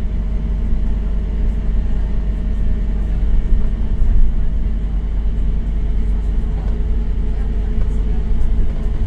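Scania K270UB bus's five-cylinder diesel engine running steadily with a low drone.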